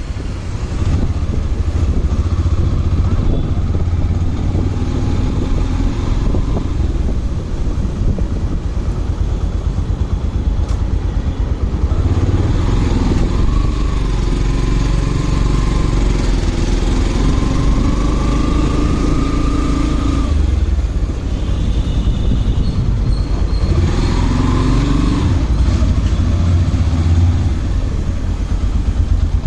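Motorcycle on the move, its engine running under a heavy low wind rumble. The engine pitch rises and falls with the throttle about halfway through.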